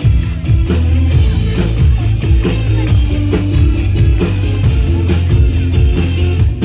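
Live band playing the instrumental intro of a song, with a drum kit keeping a steady beat over bass and guitar.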